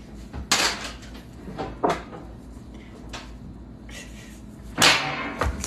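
A few short, sharp knocks and clacks of kitchen containers being handled, spread over several seconds. The loudest comes about half a second in, and another near the end.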